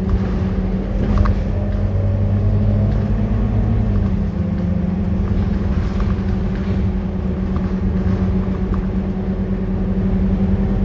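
Scania K230UB bus's five-cylinder diesel engine running steadily, its note changing about four seconds in, with a few light clicks or rattles.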